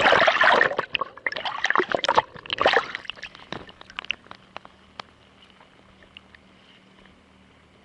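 Sea water sloshing and splashing around a kayak in loud, uneven surges for about three seconds, then settling to a few small drips and trickles.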